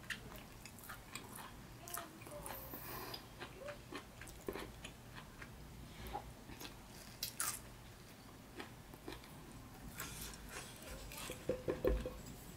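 Close-up chewing and biting of saucy stewed beef: wet, smacking mouth sounds with scattered soft clicks. A quick cluster of louder wet clicks comes near the end.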